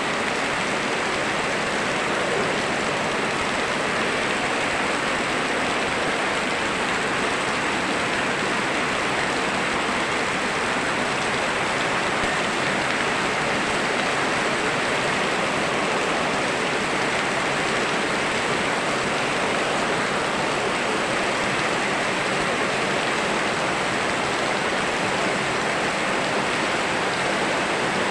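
Steady rain mixed with a flowing river: an even, unbroken hiss of falling and running water.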